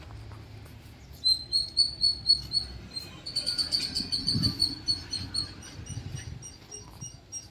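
A small bird chirping in two quick runs of short, high, even-pitched chirps, about five a second.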